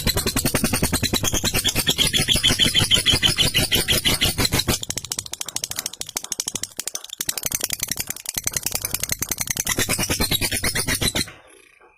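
Lovebird 'ngekek' call: a long, very rapid rattling chatter that goes on almost without a break and cuts off suddenly just before the end.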